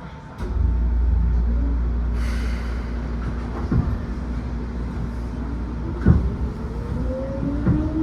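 Seibu New 2000 series electric train pulling away from a station, heard from inside the car. A low hum from the running gear comes up suddenly about half a second in, a few sharp knocks of the wheels over rail joints follow, and a motor whine rises steadily in pitch near the end as the train gathers speed.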